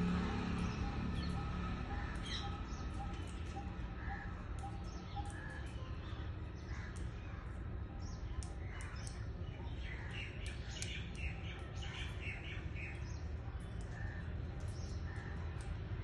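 Birds chirping with many short, high calls, busiest a little past the middle, over a steady low background hum.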